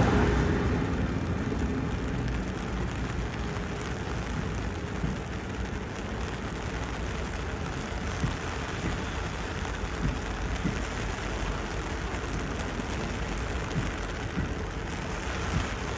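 Steady rain falling as an even hiss, with scattered drops tapping. The noise of a train dies away over the first couple of seconds.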